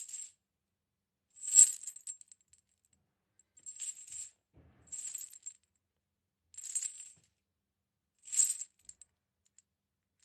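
A series of about seven short clinking rattles, coming about one every second and a half.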